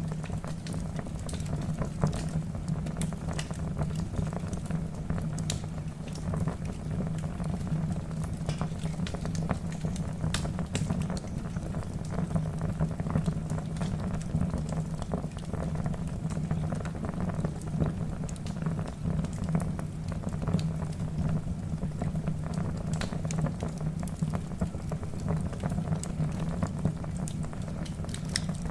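Wood fire burning in a fireplace: a steady low rumble of flame with frequent irregular crackles and pops from the logs.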